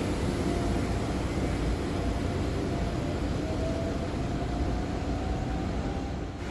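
Electric three-axle bus (Scania K310 chassis converted to electric drive by Eletra) under way: a steady low road rumble with a faint electric-motor whine that rises a little about halfway through.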